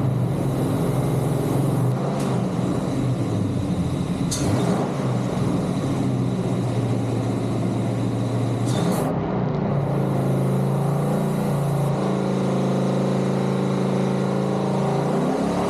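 Doug Rippie Motorsports LT1 383 stroker small-block Chevy V8 running on an engine dyno at a fairly steady speed, with a few short hisses over it and a brief change in engine note near the end.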